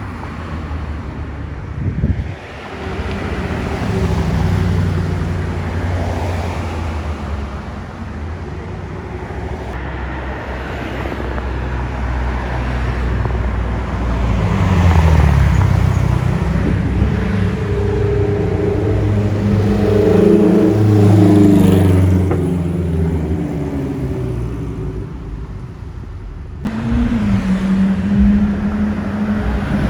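Car engines running in street traffic, their pitch rising and falling as they accelerate and pass. About 27 s in, the sound cuts abruptly to a steadier engine note.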